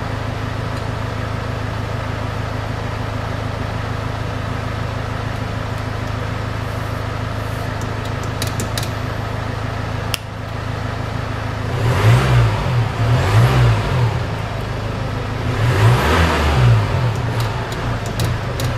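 Land Rover Discovery engine idling steadily, heard from inside the cabin. A click about ten seconds in comes as a switch on the hand-control panel is pressed. The engine is then revved briefly twice near the end.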